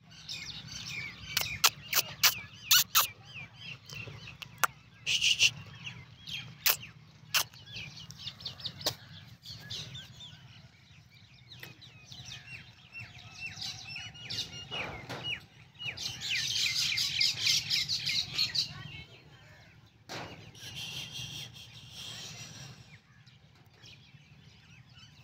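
Birds chirping in many quick, high repeated calls, thickening into a dense chatter about two-thirds of the way through. Several loud sharp clicks come in the first third.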